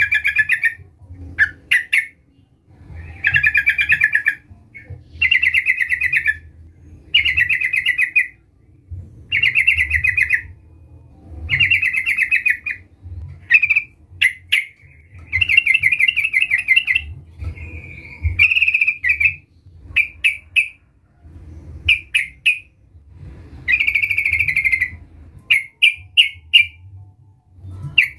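Yellow-vented bulbul (trucukan) singing loudly. It repeats a bubbly phrase about a second long roughly every two seconds, with short chirps between the phrases and a faint low hum underneath.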